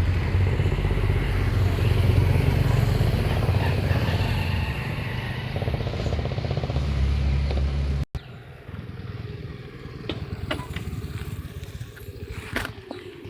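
Motorcycle on the move: a steady low engine and wind rumble. About eight seconds in it cuts off abruptly to a much quieter outdoor background with a few sharp clicks.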